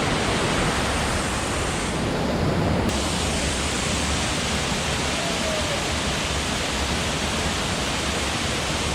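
Forest stream and small waterfall rushing steadily over rock ledges, water churning in the rock pools.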